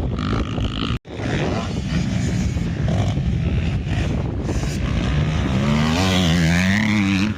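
Motocross bikes running on the track, engines revving; about two-thirds of the way through one bike comes close, its engine note rising and falling as the rider works the throttle. The sound cuts out for an instant about a second in.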